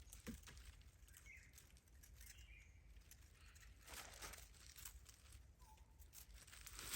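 Near silence: faint forest ambience with a few soft rustles and clicks, a brief rustle about four seconds in, and a few faint short bird chirps.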